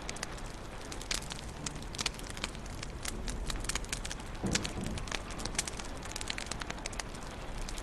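Wood fire burning in a fireplace, crackling with irregular sharp pops and snaps over a steady low hiss, with a brief soft rush about halfway through.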